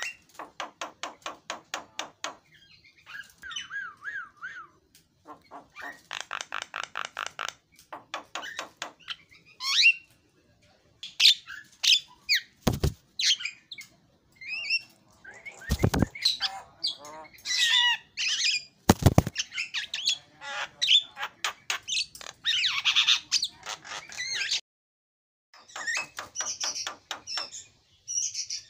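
Javan myna singing a varied, energetic song: fast rattling trains of repeated notes, whistled glides and harsh squawks, broken by short pauses, with a few sharp clicks in between.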